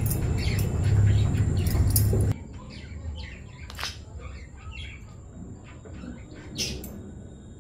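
Small birds chirping in short calls, with a low rumbling noise over them that cuts off suddenly about two seconds in. Two sharp clicks come later.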